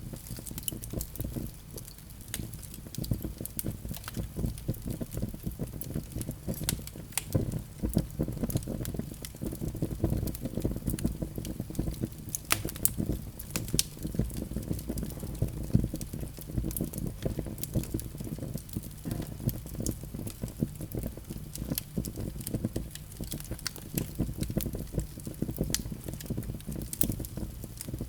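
Fire burning in a fireplace, crackling with frequent irregular pops over a steady low rumble of the flames.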